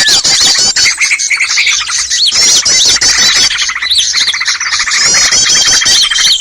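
Dense, loud chorus of many small songbirds chattering, chirping and squawking over one another, a bird-trapping lure recording of mixed small-bird calls with noisy bulbul (kutilang) chatter. A steady high trill joins near the end.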